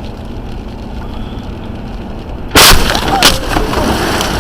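Steady road noise inside a moving car, then about two and a half seconds in a sudden very loud bang as the car is hit and its airbag deploys, with a second sharp bang under a second later and rough rushing noise after.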